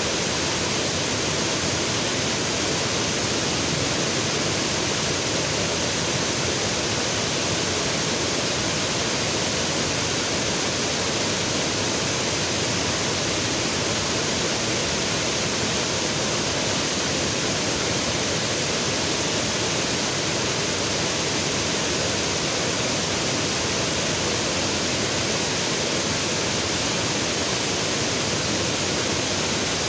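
Steady rushing of flowing river water, an even, unbroken noise with no change in level.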